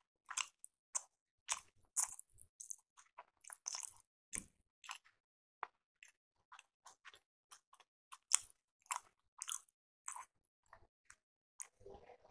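Close-miked mouth sounds of chewing a mouthful of appe (soft rice-batter paniyaram): a run of short, irregular wet clicks and smacks. Near the end, a sip from a glass.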